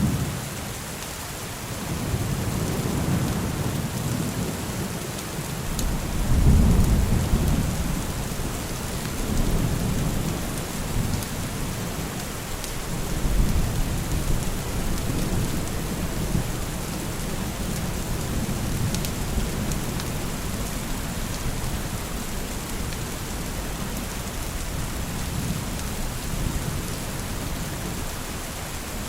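Steady rain falling, with thunder rumbling low and rolling several times, loudest about seven seconds in and again about thirteen seconds in.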